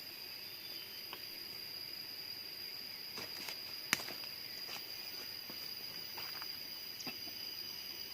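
A steady, high-pitched insect drone, with scattered light clicks and snaps and one sharper snap about halfway through.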